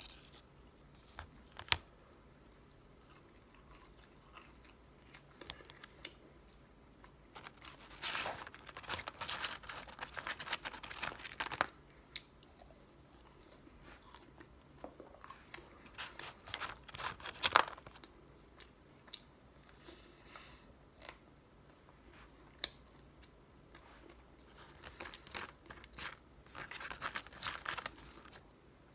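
Close-miked chewing and crunching of McDonald's fries, in bouts separated by quieter stretches, with a few sharp clicks.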